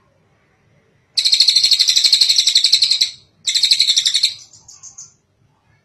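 Tengek cililin song: a rapid chattering trill of about ten notes a second lasting about two seconds, then after a short break a second, shorter trill that trails off.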